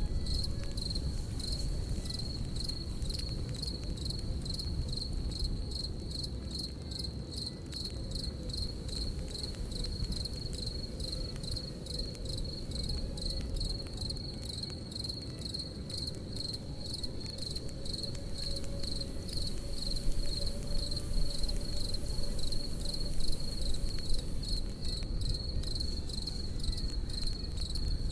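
Crickets chirping in a steady, evenly pulsing high trill over a crackling campfire, which adds a low rumble and scattered sharp pops, a few of them louder about two-thirds of the way through.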